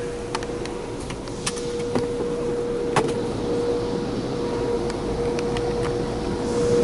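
Automatic tunnel car wash machinery heard from inside a car on the conveyor: a steady mechanical hum with a constant whine, broken by scattered sharp ticks and taps.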